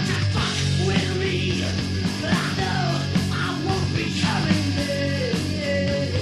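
Heavy metal band playing: distorted guitars and drums under a high lead line that bends up and down in pitch.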